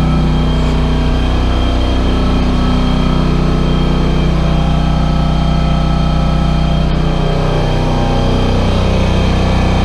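Air compressor running with a steady motor hum; its low tone shifts slightly about seven seconds in.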